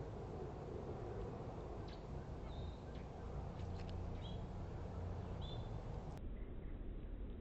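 Outdoor ambience with a steady low rumble and a few short, faint bird chirps, three of them about a second and a half apart. About six seconds in, the sound turns abruptly duller.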